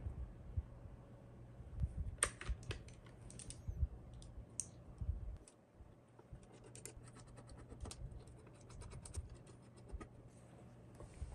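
Keyboard parts being handled and fitted together: irregular runs of small sharp plastic clicks with low knocks and scraping between them.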